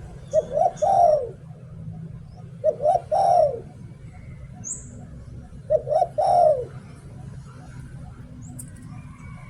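Spotted dove cooing in the 'liu tan' pattern: three phrases about two and a half seconds apart, each two short coos followed by a longer, drawn-out coo. Faint high chirps of small birds sound now and then.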